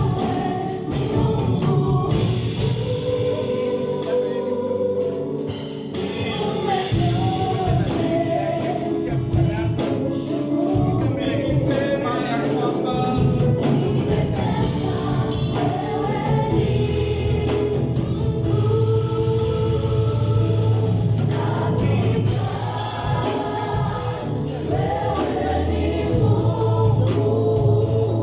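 A choir singing a gospel worship song over live instrumental backing with a beat.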